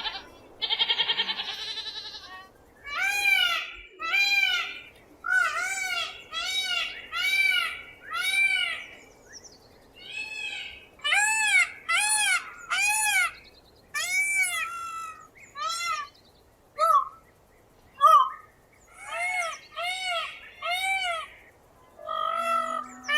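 A goat bleats twice at the very start. From about three seconds in, a peacock calls over and over: a long run of short calls that each rise and fall in pitch, coming about once a second with brief pauses.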